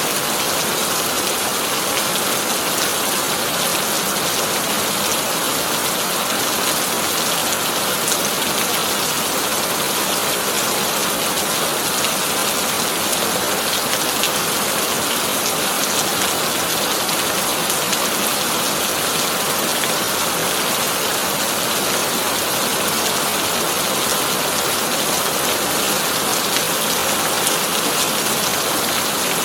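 Heavy rain drumming steadily on a tin roof, a dense even hiss with many small drop ticks and no thunder.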